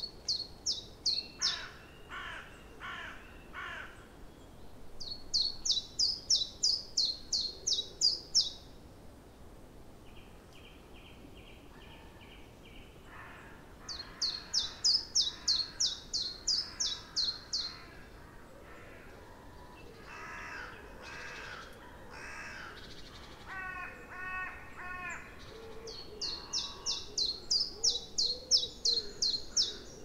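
Wild birds singing in spring woodland. One bird repeats a loud song phrase of about ten quick high notes four times, some seconds apart, and other birds call more quietly at lower pitch in between.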